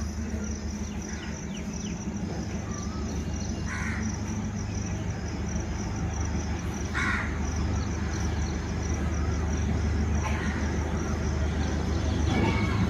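Low diesel drone of an approaching DEMU train, growing louder, with a crow cawing twice, about four and seven seconds in.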